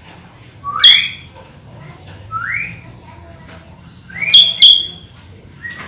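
Sooty-headed bulbul (kutilang) calling in short, loud whistled notes: one about a second in, a softer rising whistle at about two and a half seconds, and a quick double note a little after four seconds.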